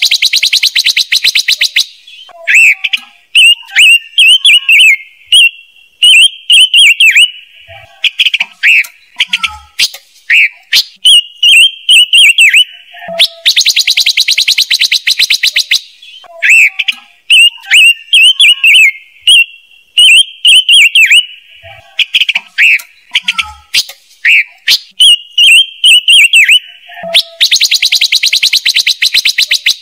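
Recorded calls of the ngũ sắc bird, played as a lure: loud series of short high whistled notes that slide in pitch, broken about every 14 seconds by a fast rattling trill lasting about two seconds.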